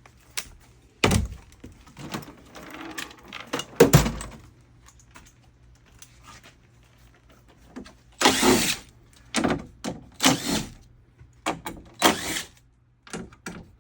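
Knocks, scrapes and metallic clinks of hand work on a steel Jeep TJ door: Phillips-head screws being backed out and the inner handle bracket being handled. Bursts of clatter come in a run from about eight seconds in.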